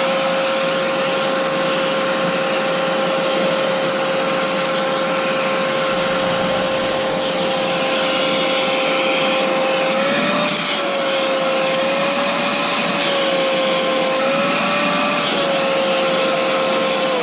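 Dirt Devil vacuum cleaner's motor running steadily at full speed with a part taken off, the suction there working fine. Past the halfway point its pitch wobbles up and down for a few seconds, then it settles again.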